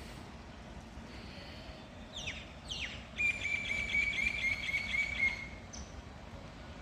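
A small bird singing: two quick falling whistled notes, then a fast high trill lasting about two seconds, over a steady outdoor background hiss.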